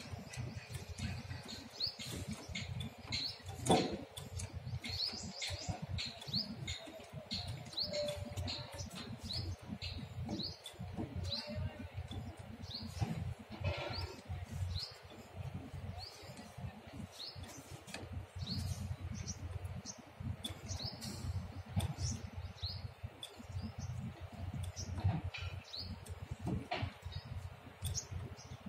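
Small birds chirping, short high chirps repeating about once or twice a second, over a continuous low rumble. A few sharp knocks, the loudest about four seconds in.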